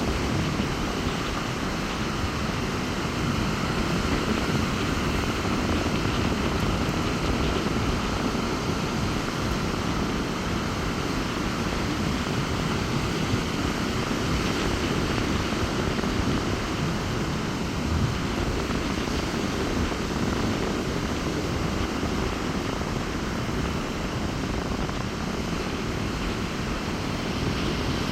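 Rough sea surf breaking on a beach in strong wind: a steady rushing noise, with low wind rumble on the microphone.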